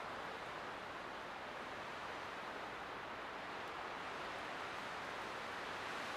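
Light wind blowing steadily, an even hiss with no gusts or breaks.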